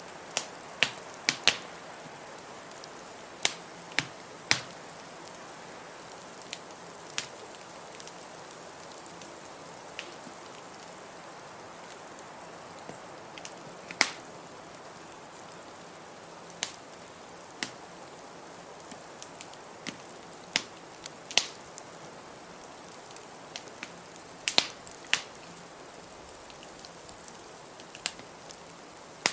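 Wood fire crackling in a fireplace, with irregular sharp pops every second or two, over the steady hiss of a blizzard.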